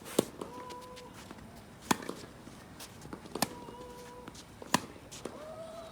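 Tennis balls struck back and forth in a rally: four sharp racket hits, about one every second and a half. Short squeaks come between the hits.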